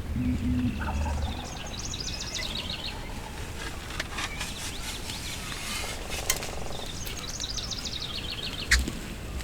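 A small songbird singing a quick run of rapid notes that falls in pitch, twice, over low rumbling background noise. There is a sharp knock near the end.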